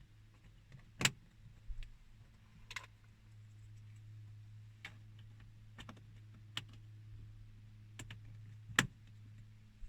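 Scattered light clicks and knocks of plastic dash trim being handled and fitted into place, the loudest about a second in and near the end, over a steady low hum.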